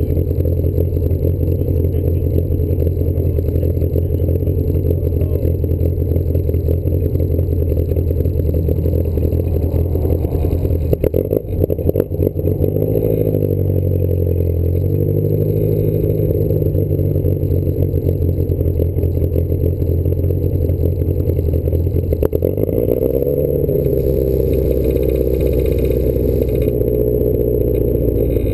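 Small British sports car's engine idling, heard from inside its hardtop cabin. The engine speed rises and falls briefly about eleven seconds in and again a little past twenty seconds, as the car is blipped or eased forward in the queue.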